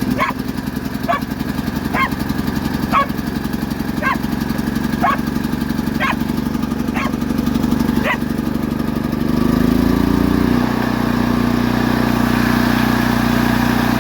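Predator 8750 generator's single-cylinder engine running steadily on a newly fitted carburetor, with a dog barking about once a second for the first eight seconds. About ten seconds in, the engine speed rises briefly and then settles into an even, slightly higher-pitched run.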